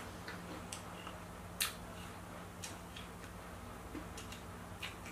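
Mouth-closed chewing of a bite of fruit: faint, scattered clicks and crunches at irregular intervals, one louder about one and a half seconds in. A low steady hum runs underneath.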